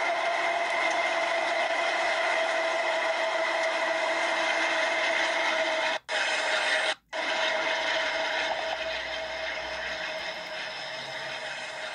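Canadian Pacific freight train running past, a steady noise played back through a laptop speaker. It cuts out briefly twice, about six and seven seconds in.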